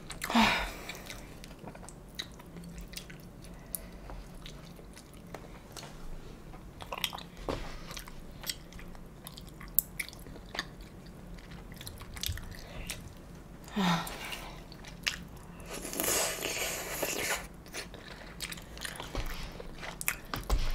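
A person chewing and biting food close to the microphone, with many small mouth and utensil clicks. There is a brief louder sound right at the start and another about 14 seconds in, and a longer rushing sound from about 16 to 17.5 seconds in.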